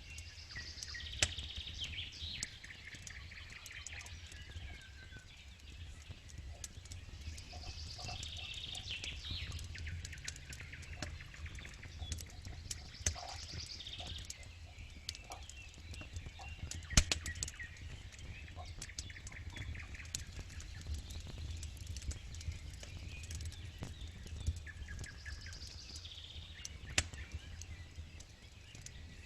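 Wood campfire crackling, with irregular sharp pops, the loudest about halfway through. A bird sings short repeated phrases in the background every few seconds.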